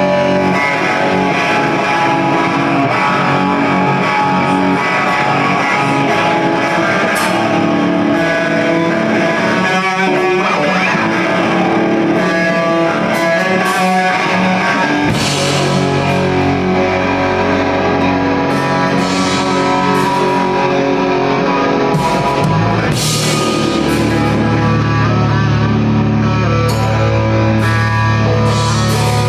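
Rock band playing live with electric guitars, bass and drums, an instrumental passage without vocals. The low end gets heavier about halfway through and again near the end.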